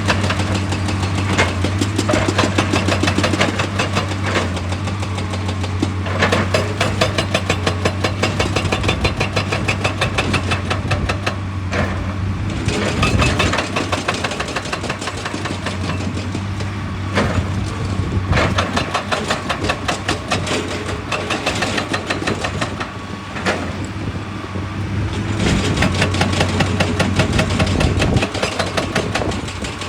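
Heavy diesel machinery engine running steadily, with a rapid train of hard knocks and rock crunching over it that comes and goes in stretches.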